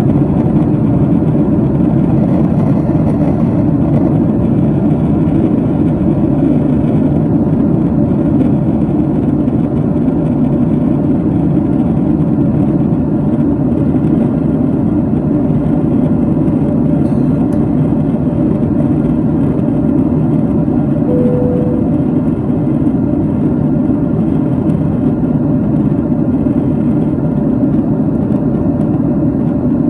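Boeing 767 cabin noise from a window seat: a loud, steady rush of jet engines and airflow at high power. A short single tone sounds briefly about two-thirds of the way through.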